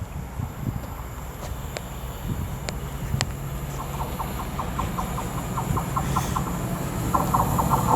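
Class 60 diesel freight locomotive approaching, its engine rumble slowly building. From about halfway through, a quick even clicking of wheels over the rail joints joins it.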